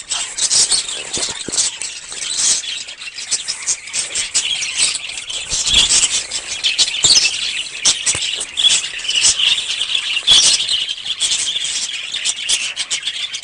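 Many small birds chirping and chattering at once: a dense, continuous stream of short high-pitched calls.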